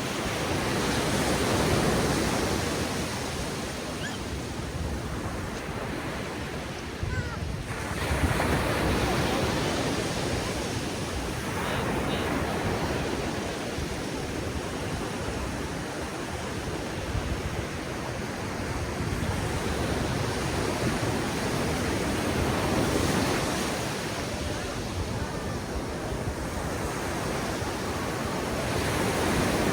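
Ocean surf breaking and washing onto a beach, the noise swelling and easing as each wave comes in, with a sudden louder surge about eight seconds in.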